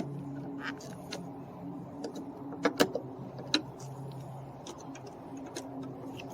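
Small clicks and clinks of hand work on a car door panel, a cluster of sharp ones about three seconds in, over a steady low hum.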